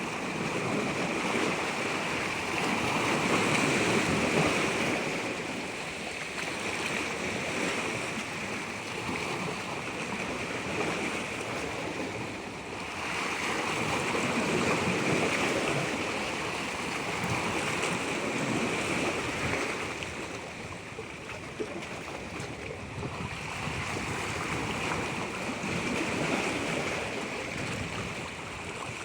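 Continuous rush of natural water, swelling louder and easing off every several seconds.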